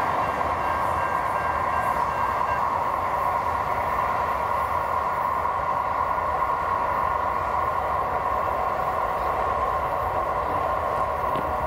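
Train rolling through the railway crossing: a steady, even wheel-and-rail noise with a ringing band in it. A thin high tone stops about two and a half seconds in.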